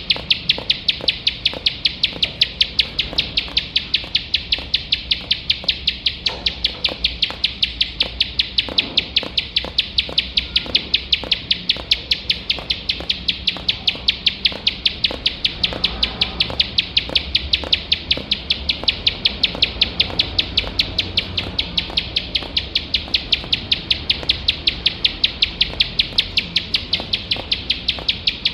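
Ciblek sawah, a small prinia, calling a rapid, unbroken string of sharp, high, repeated notes, about three a second.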